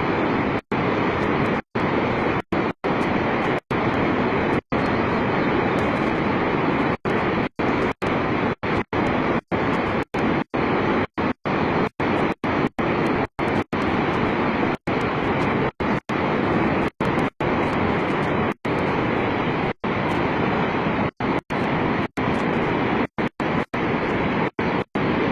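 Steady, loud rushing noise of storm floodwater running, broken by many brief cut-outs to silence.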